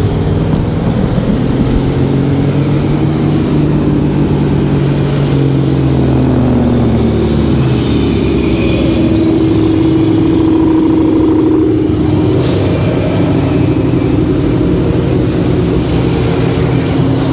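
Car engine running, its pitch easing down over the first few seconds and then holding steady, with a brief knock about twelve seconds in.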